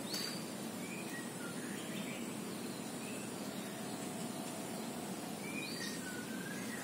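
Scattered short bird chirps and whistles over a steady background hiss, with a thin steady high tone and a brief sharp tick just after the start.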